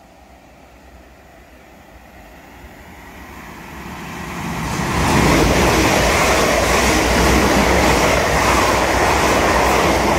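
A South Western Railway Class 450 and Class 444 Siemens Desiro electric multiple unit passing through the station without stopping. Faint at first, the train noise builds over about five seconds as it approaches, then stays loud and steady as the coaches run past.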